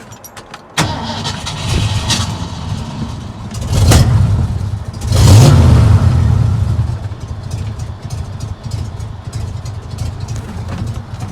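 1982 Ford F100 pickup's engine coming in suddenly about a second in, revved twice in quick succession, then settling to an idle.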